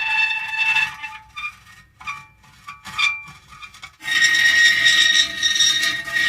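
Metal creaking: long, high-pitched squealing creaks, broken about a second in by a quieter stretch of short creaks and clicks, then a long creak again from about four seconds in.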